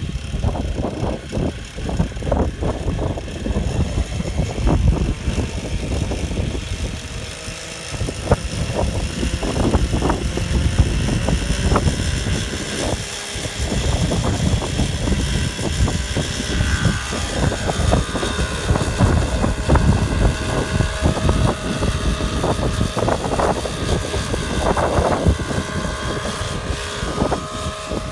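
Radio-controlled model airplane's motor and propeller running in flight, its pitch shifting as it manoeuvres, under heavy rumbling wind buffeting on the microphone.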